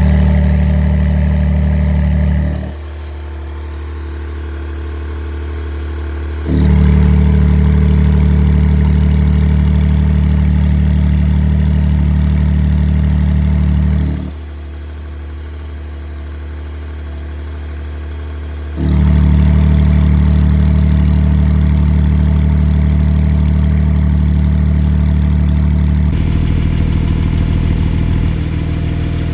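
2020 Porsche 992 911 Carrera S twin-turbo flat-six idling steadily through its exhaust while the Cargraphic valve controller switches the exhaust valves. The note steps abruptly quieter when the valves close, about three seconds in and again around fourteen seconds, and back to loud when they open. Near the end the idle note turns slightly quieter and more pulsing.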